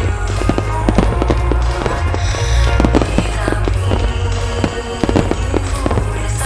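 Aerial fireworks shells bursting in a rapid, irregular barrage over music, with many sharp reports every second.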